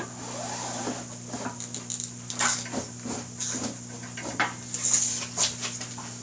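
Tire levers working a tire bead over a motorcycle wheel rim: irregular metal clinks and scrapes, with a steady low hum underneath.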